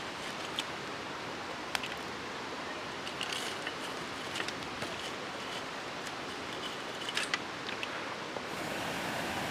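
Campfire burning with a steady hiss and scattered small crackles and pops.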